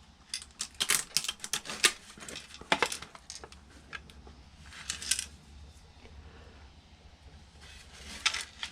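Clicking, clattering and rattling of small hard plastic and metal parts as a karaoke machine is taken apart by hand. There is a quick run of sharp clicks and knocks in the first few seconds, a short scrape around the middle, and a few more clicks near the end.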